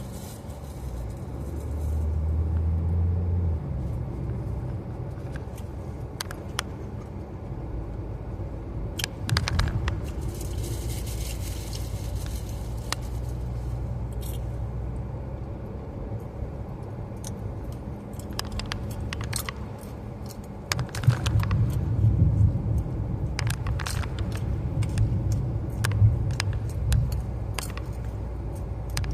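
Car interior noise while driving: a steady low road and engine rumble, with scattered clicks and light rattles.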